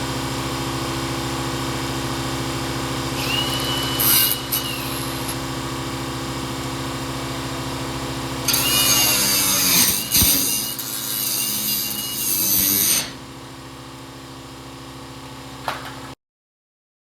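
Steady machine hum throughout, with a pneumatic tool cutting into the rusted sheet metal of a truck bedside: a brief high whine with a flare of noise, then a louder burst of cutting lasting about four seconds. The sound cuts off abruptly near the end.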